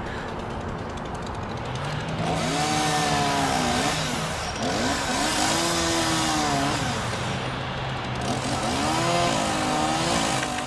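Volvo ECR145EL excavator's diesel engine running with a steady hum, its hydraulics straining under load three times: whining strains that rise and fall in pitch, about two, five and nine seconds in.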